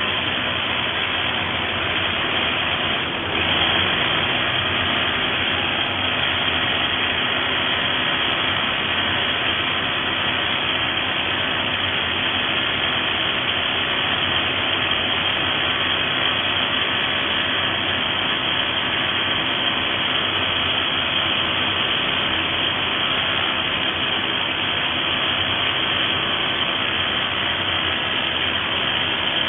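XCORT XZC06-26 corded SDS-plus rotary hammer running steadily, with a brief dip in loudness about three seconds in.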